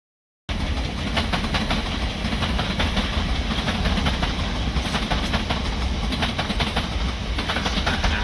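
A passenger multiple-unit train running past, a steady rumble with rapid clicking of wheels over the rail joints. It starts abruptly about half a second in.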